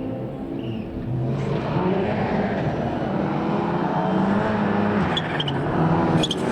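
Rally car engine at high revs, growing louder as the car approaches. Its pitch climbs and drops back several times as it changes gear. A few sharp clicks come near the end.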